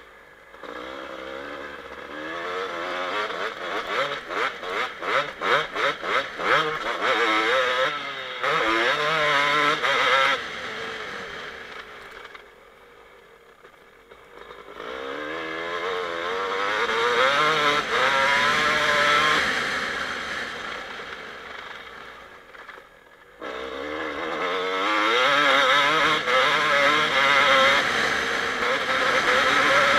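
Single-cylinder two-stroke engine of a 2007 Kawasaki KX250 motocross bike revving hard under riding load, its pitch climbing and falling with the throttle. A quick run of throttle blips comes early on, and twice the engine drops off to a low, quieter burble before pulling back up to high revs.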